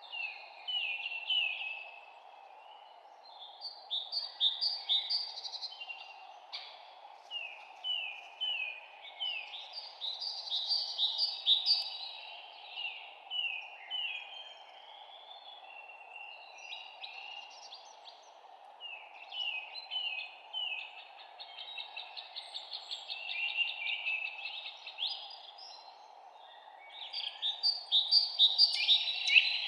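Several songbirds singing in overlapping bursts of rapid, high chirped notes, loudest near the end, over a steady low background hiss.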